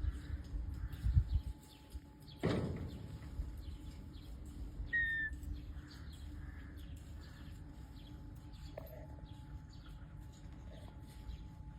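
Blue-fronted Amazon parrot giving a short harsh squawk about two and a half seconds in, then a single brief whistled note a couple of seconds later, over a steady low hum. A few low thumps come in the first second or so.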